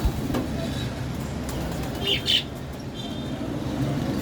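Birds calling: two or three short high chirps about two seconds in and a fainter one a second later, over a steady low background rumble, with a single thump right at the start.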